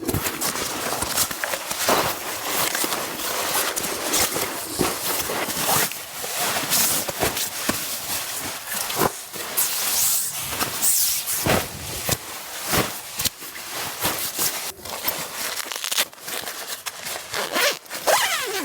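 Zipper rasps and rustling of fabric or gear being handled close to the microphone, with many short scrapes throughout.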